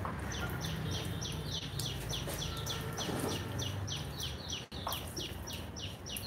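A small bird calling a rapid, even string of short high notes, each falling in pitch, about three or four a second, over a faint low hum.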